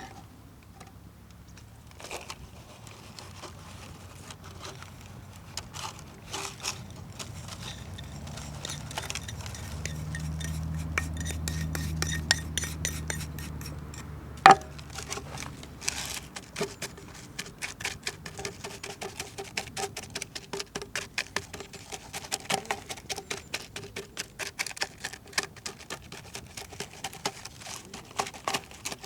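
Metal utensils and dishes clinking and scraping, with quick repeated clinks through the second half and one sharp clank about halfway. A low hum swells and fades in the middle.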